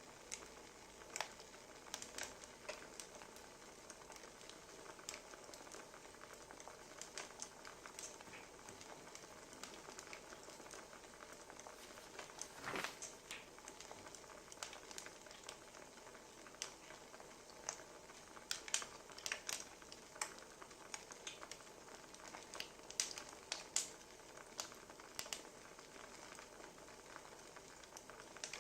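Wood fire crackling softly: a low steady hiss with scattered pops and snaps, one bigger pop about halfway through, and snaps coming thicker in the second half.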